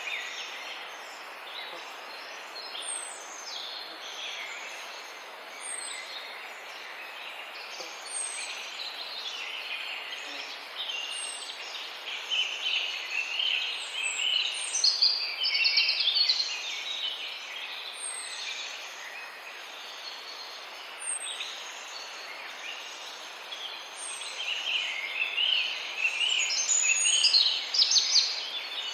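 Many birds chirping and chattering together, thickening about halfway through and again near the end. A thin, high, falling note repeats every few seconds over a steady background hiss.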